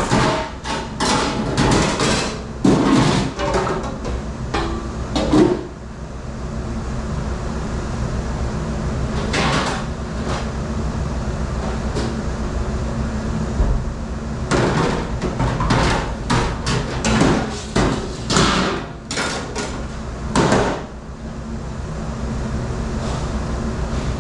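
Hard clanks and knocks of dishes and racks being handled in a commercial dish room, in several bursts, over a steady low drone of kitchen machinery.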